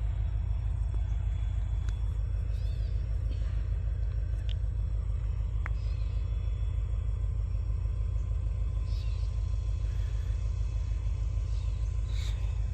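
Steady low rumble of an approaching Norfolk Southern diesel freight train, with a few faint high chirps over it.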